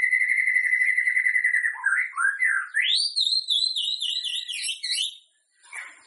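White-rumped shama (murai batu) singing. It holds a long, finely warbled note on one pitch, then about two seconds in breaks into quick swooping whistled phrases that climb higher. The song stops about five seconds in, and a few fainter notes follow near the end.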